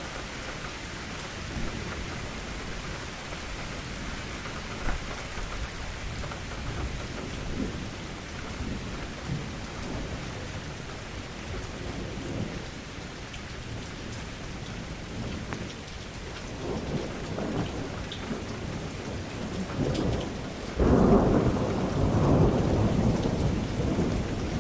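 Steady rain falling, with thunder rumbling low in the background; near the end a loud roll of thunder breaks in suddenly and keeps rumbling.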